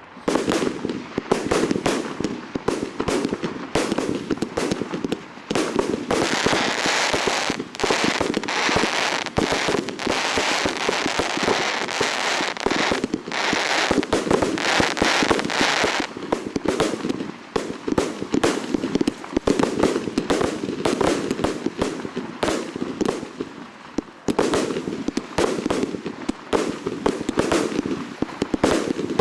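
Aerial fireworks display: a dense, continuous barrage of bangs from shells and cakes, with crackling between the reports.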